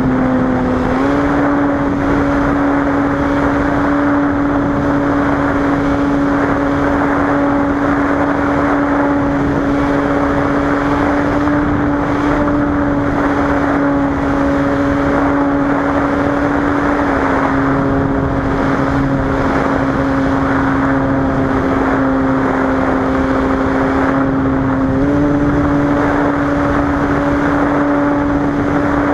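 Cessna 185's engine and propeller running steadily, a loud droning tone over heavy rushing air noise. The pitch steps up slightly about a second in, dips a little past the middle and rises again near the end, as the power or propeller speed is adjusted.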